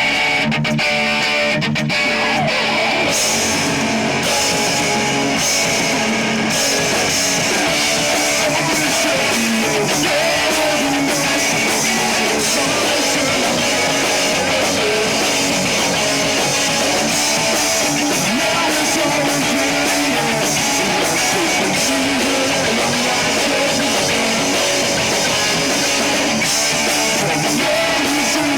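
A live rock band playing a song at full, steady volume, with distorted electric guitars over bass and a drum kit.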